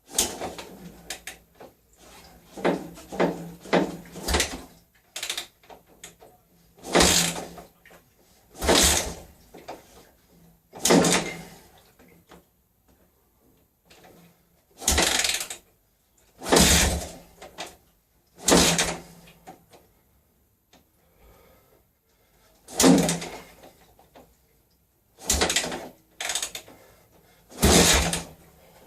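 Yamaha XT600 2KF single-cylinder four-stroke being kick-started again and again, about a dozen kicks a couple of seconds apart, each a short clunk and turn-over without the engine catching.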